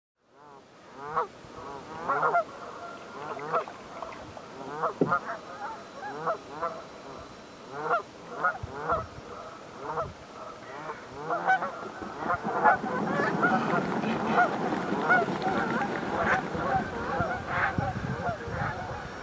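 A flock of geese honking on the water, many calls overlapping. About twelve seconds in, the honking grows louder and denser over a low rushing sound as the flock takes off.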